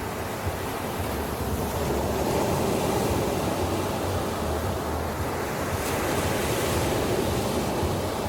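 Ocean surf washing onto a beach: a steady wash of breaking waves that swells and eases.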